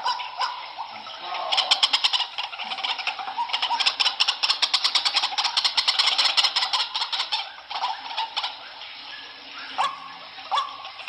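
White-breasted waterhen calls: a fast, even run of pulses, about ten a second, lasting several seconds, then a few short rising notes near the end.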